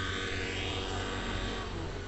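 Glow-fuel engine and rotors of a Neo Caliber 50 RC helicopter running in flight, a steady drone with a shifting higher whine.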